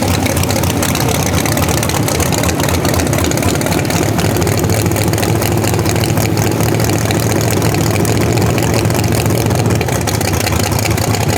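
Vehicle engine running steadily, a low even hum under a loud rushing noise, with no revving.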